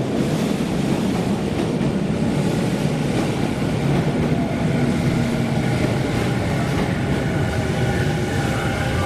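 Electric commuter train running at a station platform: a steady rumble of wheels and running gear.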